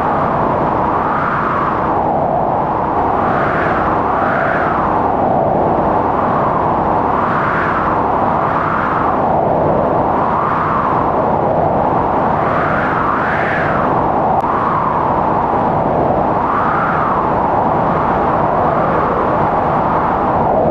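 Strong howling wind in a blizzard: a steady rush whose pitch swells up and falls back in gusts every second or two.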